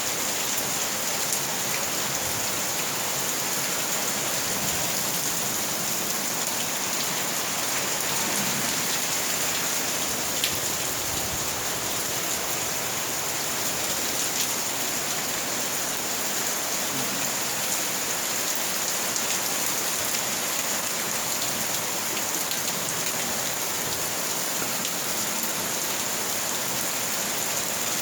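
Heavy monsoon rain falling steadily, a dense hiss of drops hitting the ground and surfaces, with scattered sharper drop ticks.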